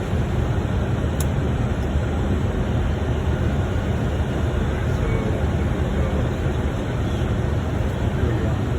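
Steady rumble and rush of air on a Boeing 747-400 freighter's flight deck during approach, from airflow and the engines.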